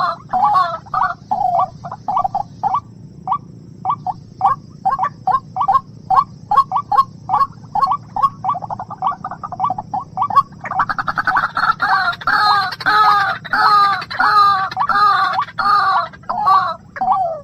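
A bird calling in a steady run of short repeated notes, about three a second. About ten seconds in, the calls turn louder and fuller, each note bending in pitch.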